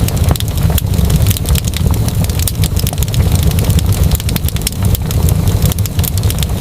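Fireplace fire crackling: a dense run of sharp pops and snaps over a steady low rumble of the flames.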